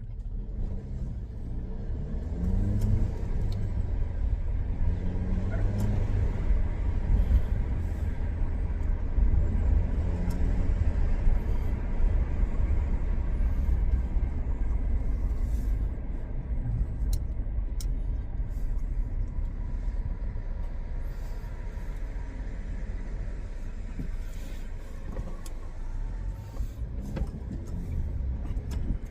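Turbocharged Alfa Romeo being driven, the engine climbing in pitch several times as it accelerates through the gears in the first ten seconds or so, then running more steadily at cruise over road noise.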